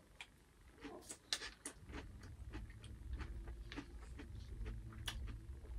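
Quiet chewing of a spoonful of Honey Nut Cheerios, with a few short sharp clicks scattered through it, and a low steady hum that comes in about two seconds in.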